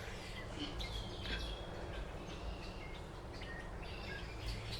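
Birds chirping faintly: short, scattered calls over a steady low background hum.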